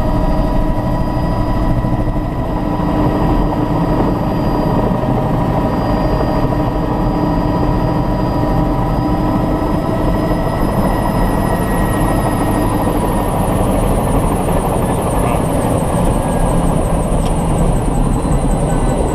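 Helicopter engine and rotor running steadily, with a high whine setting in about halfway that slowly falls in pitch.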